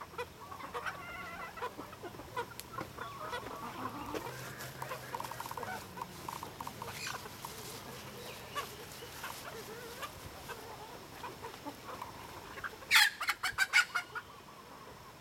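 Chickens clucking, short scattered calls throughout. Near the end, a quick run of about seven sharp knocks, the loudest sound here.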